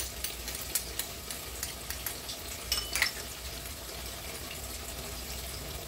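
Oil sizzling and crackling steadily as tofu fries in a pan. About three seconds in, a metal spoon clinks against a ceramic bowl with a brief ring.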